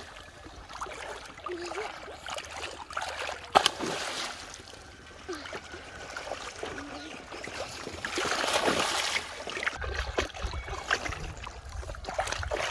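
Hands splashing and sloshing in shallow muddy water while groping for fish, with a sharp knock about three and a half seconds in and a longer, louder splash about eight seconds in.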